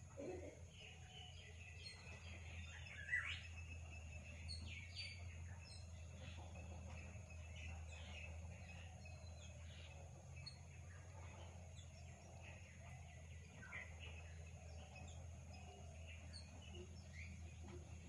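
Faint bird chirps scattered throughout over a steady low hum, the loudest chirp about three seconds in.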